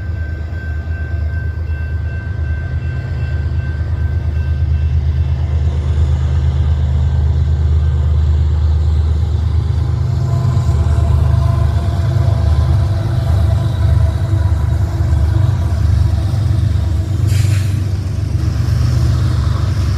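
A train led by several diesel locomotives passing close by: a deep, steady engine rumble that builds over the first few seconds and then stays loud, with thin steady whining tones above it and a short sharp crack near the end.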